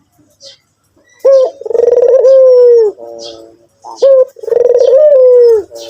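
White Barbary dove cooing loudly twice, each call a short note followed by a long, slightly falling coo. Faint high chirps sound between the calls.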